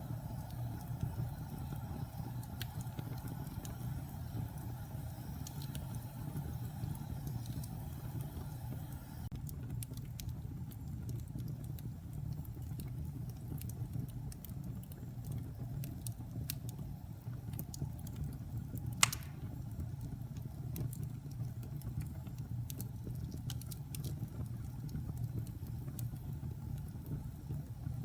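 Wood fire crackling in a fireplace: a steady low rumble of burning with scattered small crackles and one loud pop about two-thirds of the way through.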